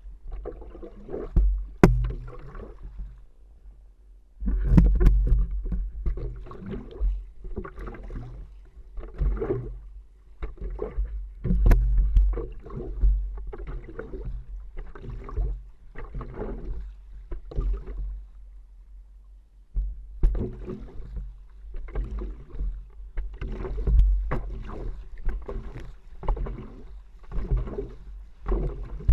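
Stand-up paddleboard paddle strokes splashing in the water in a steady rhythm, a little faster than one a second, pausing briefly twice. Wind rumbles on the microphone throughout.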